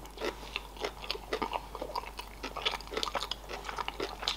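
A person chewing a mouthful of sushi roll with the mouth closed: soft, wet, irregular clicking and crunching mouth sounds.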